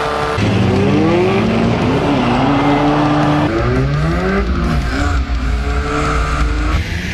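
Four-cylinder compact cars' engines revving up and down in a demolition derby, with some tyre squeal. About halfway in, the engine sound becomes close and heavy, as heard from on board a car.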